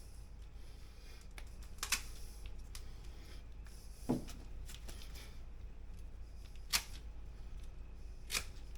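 Hand clippers snipping split Namwah banana fingers off the rack, four short sharp clips about two seconds apart, one of them a duller knock.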